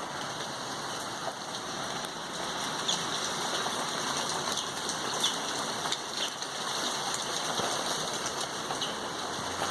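Steady rain falling during a sun shower, an even hiss of drops. A few short, faint high chirps come through it now and then.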